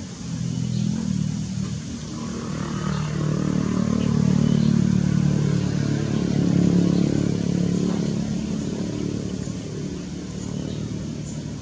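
A motor vehicle's engine passing by, growing louder to a peak midway, then fading away.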